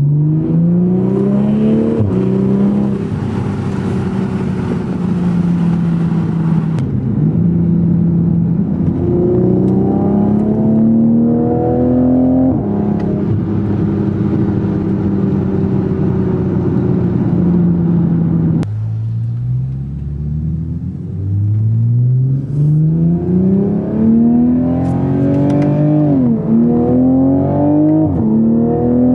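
MkV Toyota Supra with an ETS aftermarket exhaust accelerating through the gears, heard from inside the cabin. The engine note rises in pitch and drops sharply at each upshift, with steady or slowly falling stretches between pulls. It sinks suddenly about two-thirds of the way in, then climbs again in a hard pull with two quick shifts near the end.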